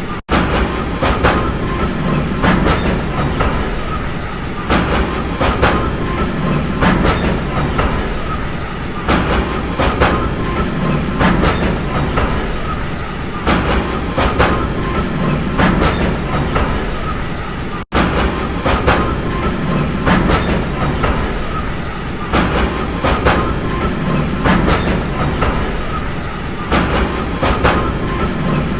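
A train running along the rails with a steady rumble, its wheels clicking over rail joints in clickety-clack pairs every second or so. The sound cuts out for an instant about two-thirds of the way through.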